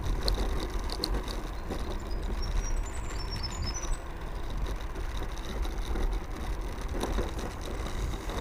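Riding noise from an electric stand-up scooter under way: wind buffeting the microphone over a steady low rumble of the wheels on the road. A few brief high chirps come about three seconds in.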